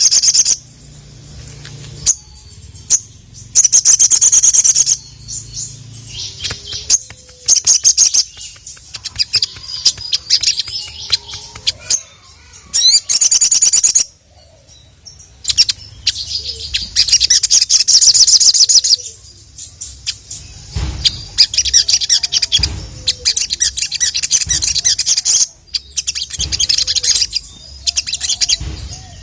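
Little spiderhunter (sogon) singing: loud bursts of rapid, high chattering notes, each lasting one to three seconds, repeated with short pauses.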